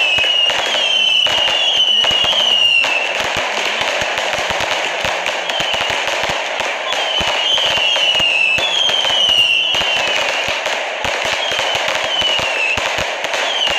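Firework cakes firing continuously: dense crackling and popping of aerial bursts, with short high falling whistles repeating over it.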